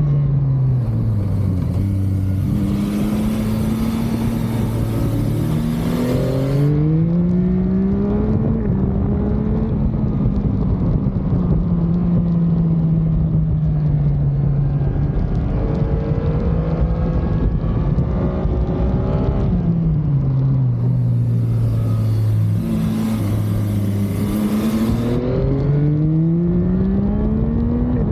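Motorcycle engine on the move: revs drop, then climb through the gears in repeated rises, hold steady for a few seconds, drop again and climb once more. A rushing hiss rises with each hard acceleration.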